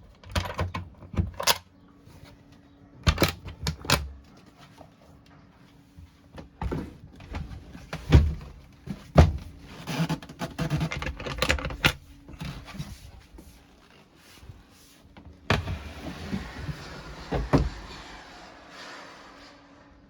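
Irregular knocks, clicks and thunks of wooden cabin fittings, locker lids and doors, being opened and shut inside a yacht's cabin, over a faint steady hum.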